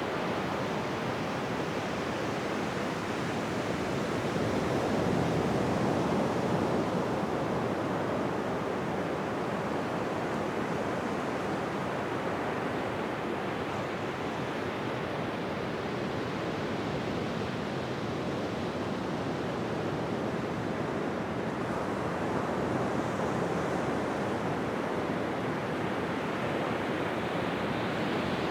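Ocean waves breaking on a beach: a continuous, soft wash of surf that swells a little about five seconds in and again briefly later.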